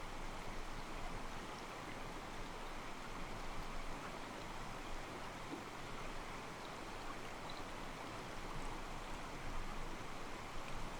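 Small mountain stream: soft water sloshing against rocks, a steady, even rush of running water.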